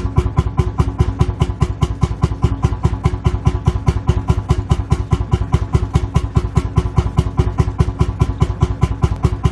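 Lanz Bulldog tractor's single-cylinder two-stroke engine idling with a slow, even, thudding beat of several firing strokes a second.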